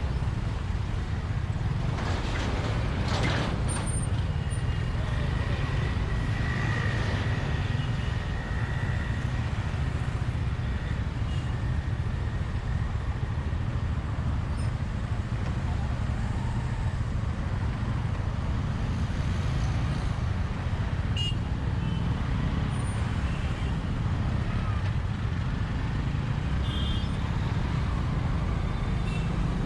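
Bajaj Vikrant V15 motorcycle's single-cylinder engine running steadily under way, with road and wind noise.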